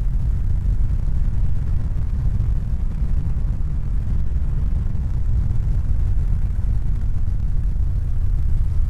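Steady deep rumble, an even noise heaviest in the bass, fading away right at the end.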